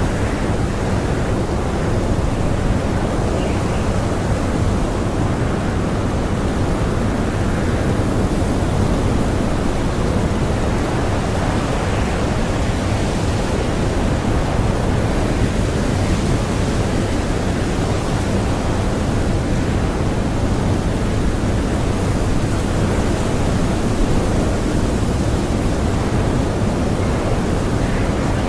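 Blizzard wind blowing hard and steadily, a dense rushing noise strongest in the low range that holds an even level without gusts or breaks.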